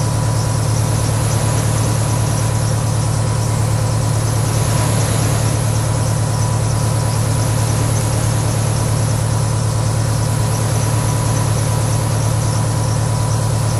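Steady, loud, low hum of a vehicle engine running at idle.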